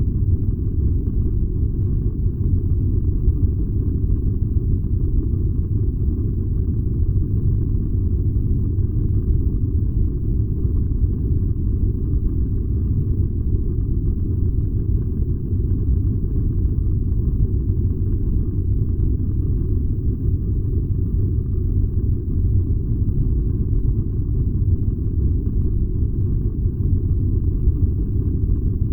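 Furnace burning with a steady, deep rumble and no changes or breaks.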